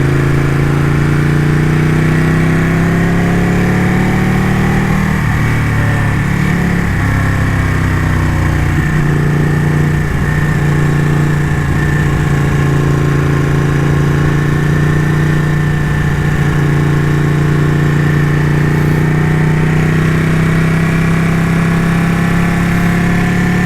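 Ducati motorcycle engine running under way at a steady cruising pace. Its pitch rises slightly over the first few seconds, wavers briefly about five to nine seconds in, then holds steady.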